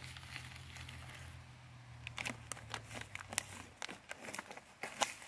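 Scattered small clicks and crinkles of food packaging being handled, over a low steady hum that fades out about three seconds in.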